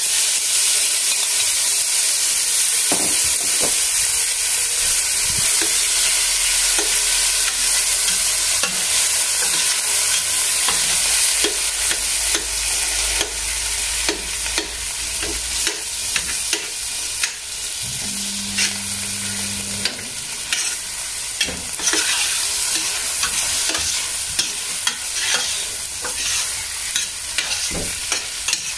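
Canned corned beef frying in a metal pot with sautéed garlic and onion, sizzling steadily while a spoon stirs it, clicking and scraping against the pot many times. The sizzle eases off gradually toward the end.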